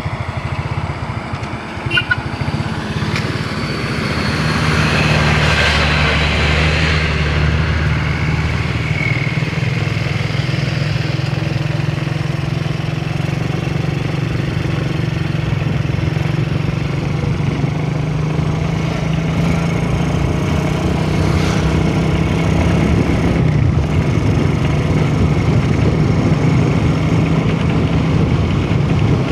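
Small motorcycle engine running steadily, getting louder about four seconds in.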